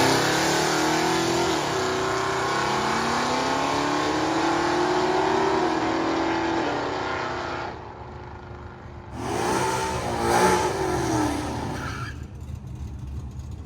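Cars accelerating hard at a drag strip, one engine's pitch climbing in steps through the gears before the sound drops away about eight seconds in. A second shorter surge of engine noise rises and falls around ten seconds in.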